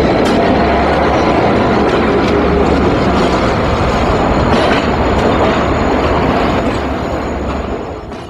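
A train running on the rails: steady, loud noise of wheels and machinery, fading down near the end.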